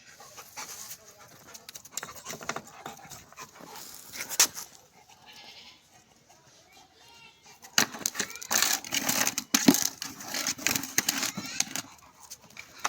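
A dog panting and making animal noises, with a run of sharp knocks and scuffling in the second half.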